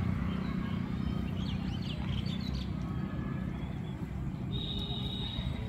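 Birds chirping a few times over a steady low rumble, with a high held note near the end.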